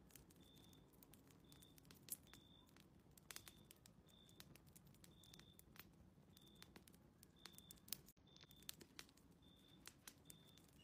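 Faint crackling of a fireplace wood fire: scattered sharp pops and clicks, with short high-pitched chirps repeating about once or twice a second over a low hum.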